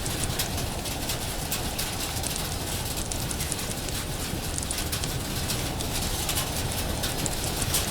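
Steady rain hiss with a wood fire crackling over it: many small, sharp pops scattered irregularly.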